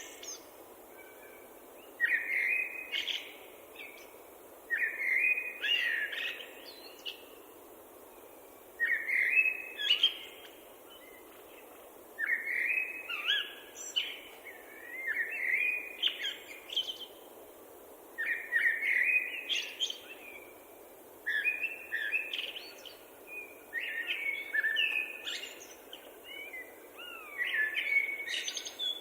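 A songbird singing a series of short, varied chirping phrases, each a couple of seconds long with brief pauses between them, over a faint steady background hiss.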